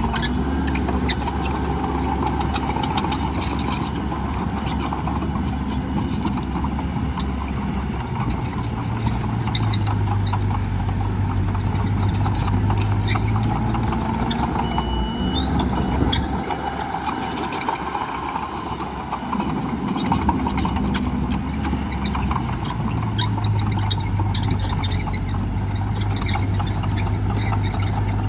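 Heavy diesel earthmoving machinery running, its engine note shifting up and down in stretches, with scattered short clanks and knocks over it.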